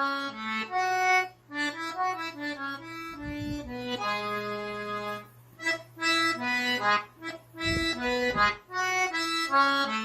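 Accordion playing a melody of single notes in short phrases with brief breaks between them.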